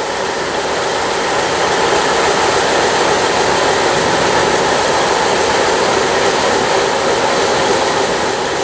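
Train running, a loud, steady noise of rolling wheels and cars with no clear rhythm, easing slightly near the end.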